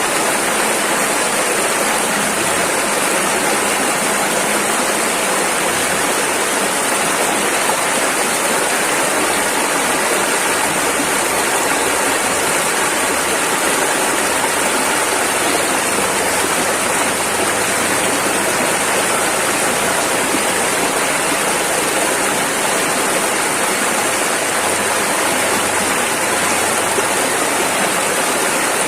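Rushing river water, a steady, even rush of fast-flowing rapids with no break or change.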